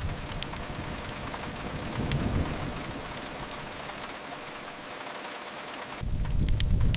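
Rain making a steady even hiss, with a low swell about two seconds in. Near the end a low rumble comes back in, with sharp crackles of a fire.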